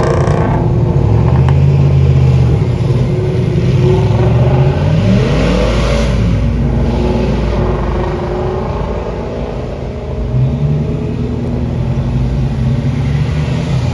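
Car engine running with a steady note, then revved near the middle, its pitch rising and falling before it settles back to a steady run.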